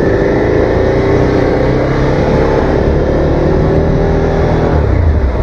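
Suzuki SV650's 645 cc V-twin engine pulling under throttle, its note rising slowly for about four and a half seconds, then changing near the end.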